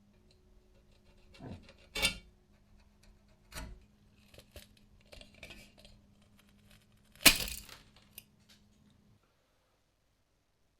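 Small metal parts clinking and being set down on a hard surface, a few scattered clinks with two louder ones about 2 and 7 seconds in. A faint steady hum runs underneath and stops about 9 seconds in.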